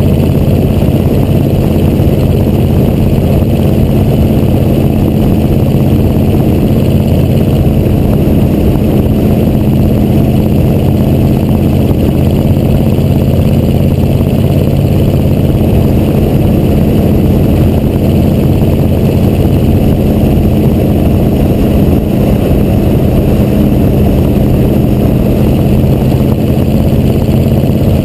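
1986 Chevrolet C30's 6.2 Detroit diesel V8 running at a steady, even speed through its exhaust stacks, loud and with no revving.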